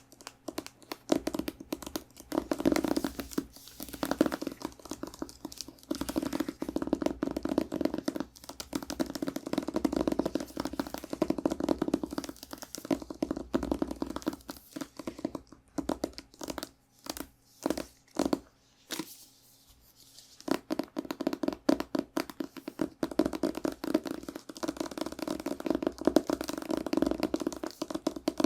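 Fingernails scratching and tapping rapidly on a book, in dense fast strokes. About halfway through there are a few separate sharp taps and a short lull before the scratching resumes.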